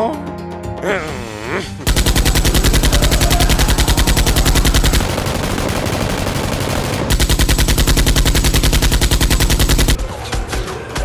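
Rapid automatic gunfire in two long bursts of about three seconds each, with a quieter stretch between them.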